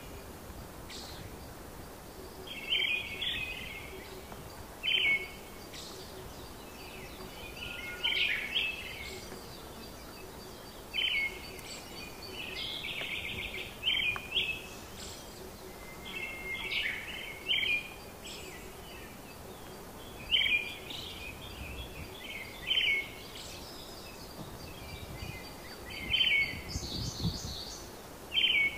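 Songbirds singing outdoors: short, bright chirping phrases repeated every two to three seconds over a steady background hiss.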